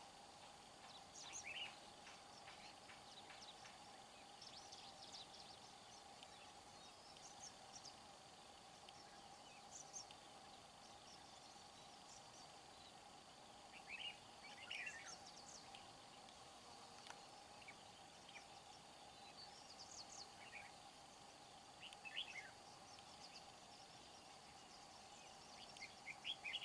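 Faint scattered bird chirps, a few short calls several seconds apart, over a steady faint hum.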